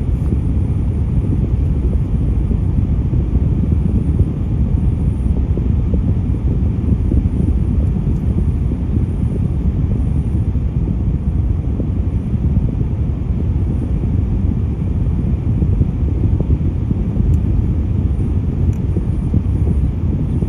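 Volvo garbage truck's diesel engine running with a steady low rumble, mixed with road noise.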